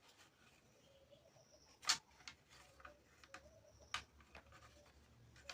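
A few faint, scattered light clicks and taps over quiet room tone, the loudest about two seconds in and another near four seconds.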